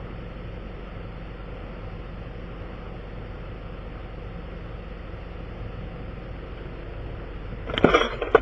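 Vehicle engine idling steadily, with a short burst of knocks or clatter near the end.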